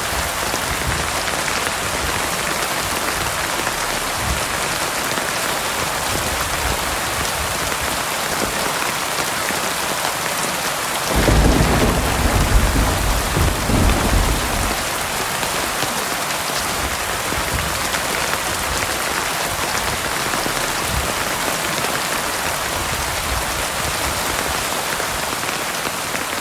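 Heavy rain pouring steadily, with a low rumble of thunder about eleven seconds in that lasts roughly four seconds before fading back under the rain.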